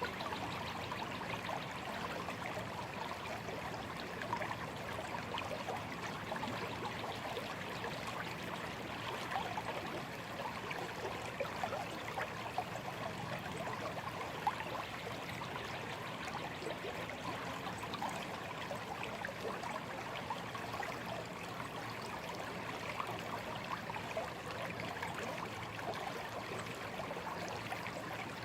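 A shallow stream running and trickling steadily, with many small quick splashes and gurgles over an even rush of water.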